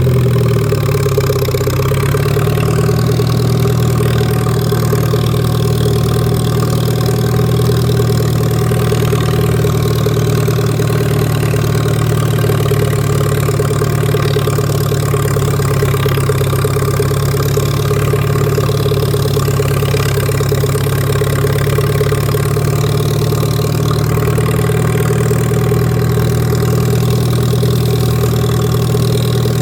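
1947 Farmall A tractor's four-cylinder gasoline engine running steadily, its pitch settling about two seconds in and then holding even.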